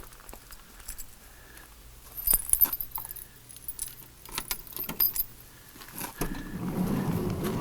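A ring of keys jangling, with sharp metallic clicks as the keys are handled at the van's lock, then a longer rustle near the end.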